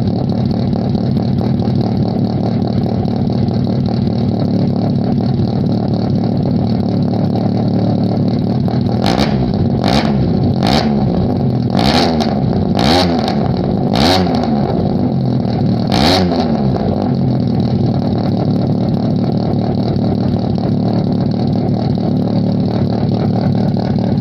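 Nissan March K11 engine running through a nearly straight exhaust with no silencer (4-2-1 header, 50 mm front and centre pipes, aftermarket rear section), idling steadily. Near the middle it is given about seven quick throttle blips, each rising and falling in pitch, before it settles back to idle.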